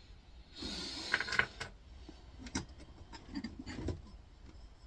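Small metal scrap parts from an air fryer teardown being handled: a short scrape about half a second in, then scattered light clicks and clinks as pieces are set down.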